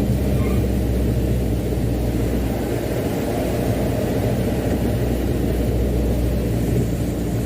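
Mitsubishi Canter dump truck's diesel engine running steadily under way, a continuous low rumble with road noise.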